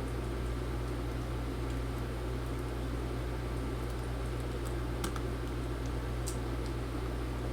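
Steady low electrical hum with a few faint, sharp small clicks, the clearest about five and six seconds in, from small hand-tool and parts work inside an open laptop.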